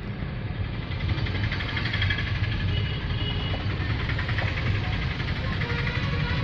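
A car running: a steady engine and road rumble.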